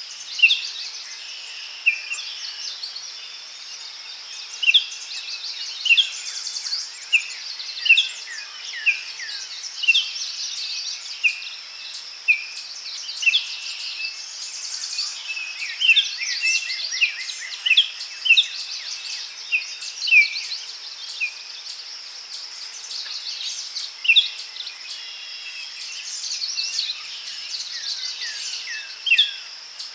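Daytime forest chorus: birds giving short, quick chirps, one after another roughly every second, over a steady high insect drone.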